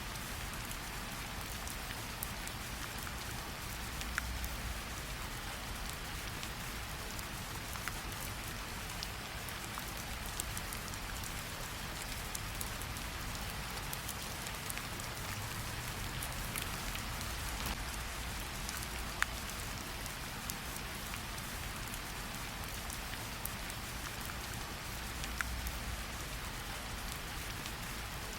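Steady rain falling on leaves and ground, with scattered individual drops striking close by.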